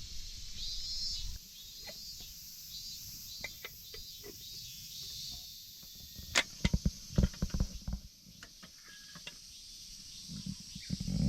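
Insects chirping steadily, with a quick run of sharp knocks and clicks about six to eight seconds in and one more knock at the end.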